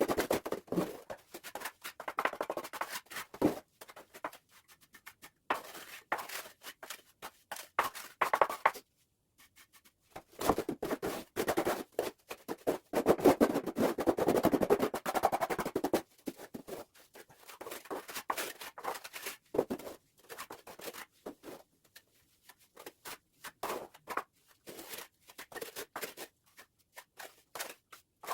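Trowel scraping and spreading cement mortar in quick, irregular strokes, in runs broken by short pauses.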